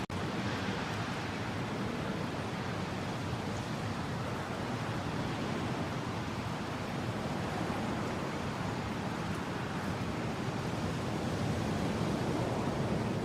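Steady rushing wind, a dense even noise that swells and eases slowly, a little stronger near the end.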